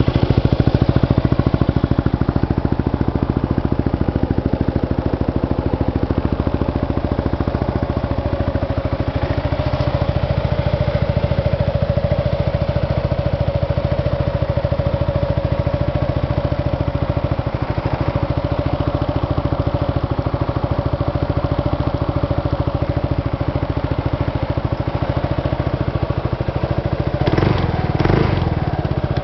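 Yamaha Majesty 250 Fi scooter's single-cylinder four-stroke engine idling steadily, with two brief louder moments near the end.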